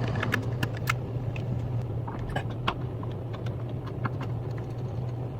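A steady low hum with irregular light clicks and taps over it, several a second early on and thinning out later.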